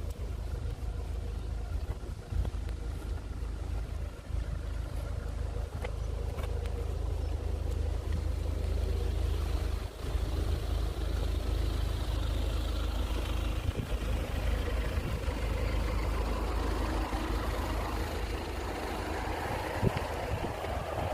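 Wind buffeting the microphone with a low, gusting rumble; from about halfway through, a broad rustling hiss of wind grows louder.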